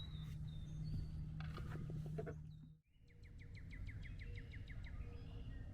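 Songbirds calling: thin whistled notes, then, after a short break about halfway through, a rapid trill of repeated notes at about eight a second.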